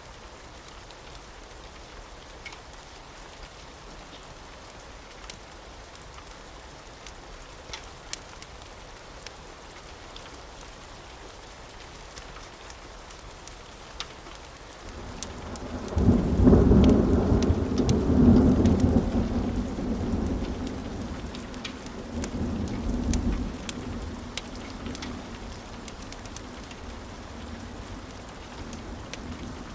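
Steady rain with scattered sharp crackles and pops from a fireplace. About halfway through, thunder breaks into a loud, deep rolling rumble that swells twice over several seconds and then fades back under the rain.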